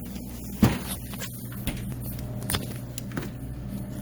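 Scattered knocks and clicks of a door and items being handled while a fridge is searched, the loudest about half a second in, over a steady low electrical hum.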